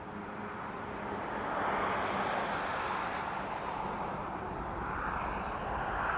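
Steady rushing noise from riding an electric unicycle over wet ground, swelling about two seconds in and again near the end.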